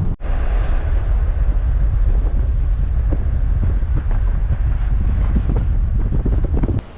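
Rumble of a moving vehicle with wind buffeting the microphone, a loud even noise heaviest in the low end. It drops away sharply near the end.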